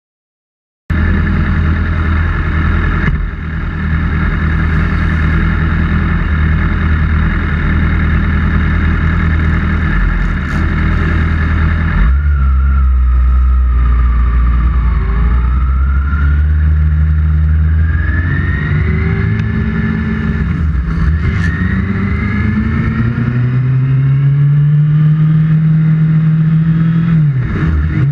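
Kawasaki ZX-6R's inline-four engine. It cuts in about a second in, running steadily at a low, even pitch. From about twelve seconds in it accelerates, pitch rising in repeated sweeps that drop back at each upshift.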